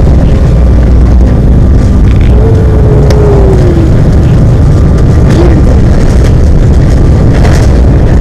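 Loud, steady roar and rumble inside a jet airliner's cabin as it comes in to land in Miami.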